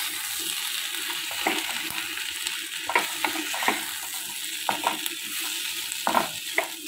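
Elephant yam pieces frying in oil in a pan with a steady sizzle, stirred by a spatula that scrapes and clicks against the pan every second or so.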